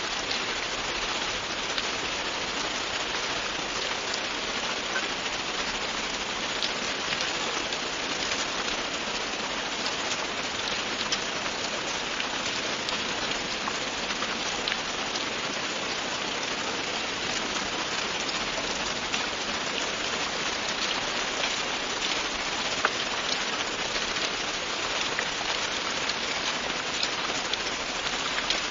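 Steady, continuous rainfall, with many individual drops ticking on a surface.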